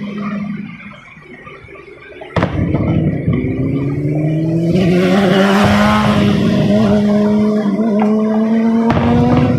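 A sharp bang about two seconds in, then a car engine revving slowly upward in pitch with a burst of tyre squeal in the middle. Two more sharp bangs come near the end.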